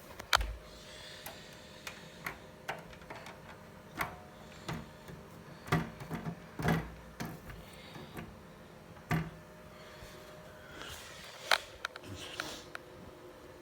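Beko DLTP81151W tumble dryer: irregular knocks and sharp clicks over a faint steady hum.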